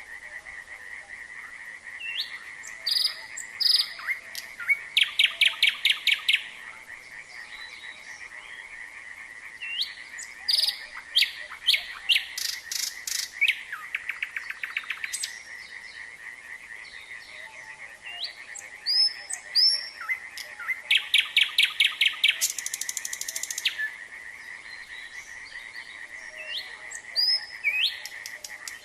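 Nightingale singing loud, varied phrases of rapid repeated notes, whistles and trills, in bouts with short pauses between. Underneath runs a continuous chorus of frogs, a steady fast-pulsed trill at one pitch.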